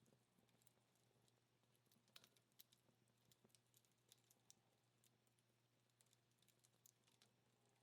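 Faint, sparse crackles and small pops of a wood fire burning down to embers, with a few sharper snaps about two seconds in.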